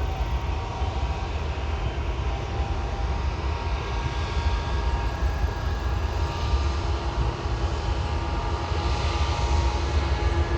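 Jet airliner engines running steadily: a deep rumble with a whine over it, growing a little louder near the end.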